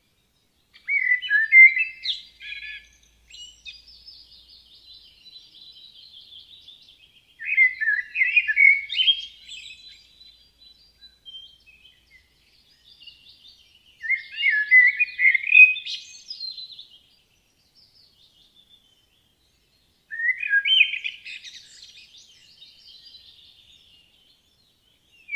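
A songbird singing: four loud, warbled phrases about six seconds apart, each trailing off into softer, higher twittering.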